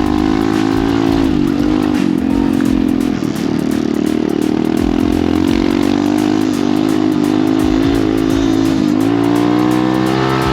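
Small pit bike engine running hard under riding load. Its pitch sags a couple of times and rises again near the end as the throttle is worked.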